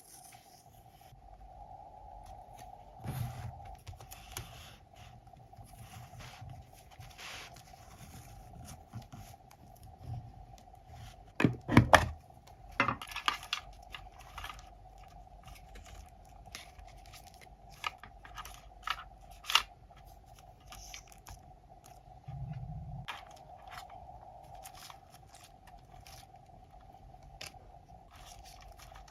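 Scrapbooking paper work: paper and stickers being handled, cut, torn and scraped in short irregular bursts, with a loud cluster of sharp clicks and crackles about twelve seconds in. A faint steady hum lies underneath.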